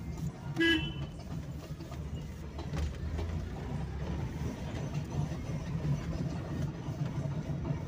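Car engine running steadily as the car creeps along at low speed, heard from inside the cabin as a low hum. A brief high-pitched sound stands out about half a second in.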